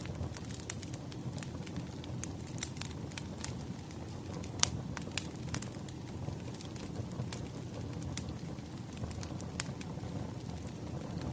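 Wood fire crackling: irregular sharp pops and snaps over a steady low rumble, with the loudest pop about halfway through.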